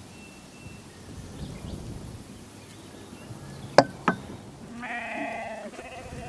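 Two sharp knocks a moment apart, then a farm animal bleating once, a wavering call of about a second and a half.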